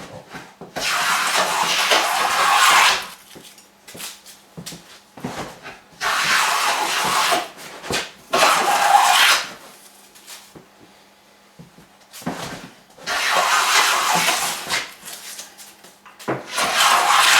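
Hand plane taking five long cutting strokes along a wooden board, each a rasping hiss of about one and a half to two seconds, with light knocks between strokes as the plane is lifted and set back.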